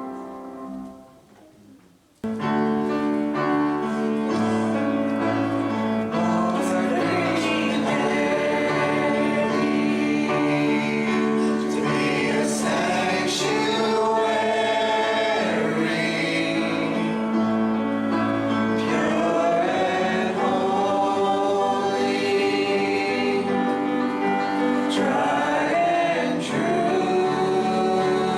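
Gospel choir music with instruments: one song fades out, and about two seconds in a new song starts abruptly and plays on, with voices singing over the accompaniment.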